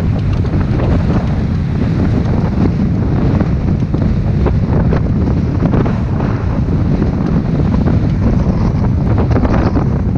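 Steady, loud wind buffeting the microphone on a motorboat under way, over the boat's running and water noise.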